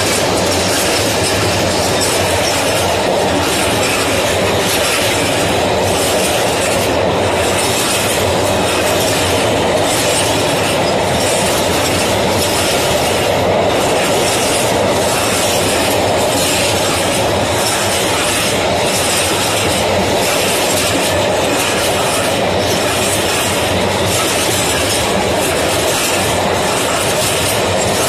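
Long freight train of high-sided open wagons rolling past: a loud, steady rumble and rattle of steel wheels on rail, with a clickety-clack as the wheels cross rail joints.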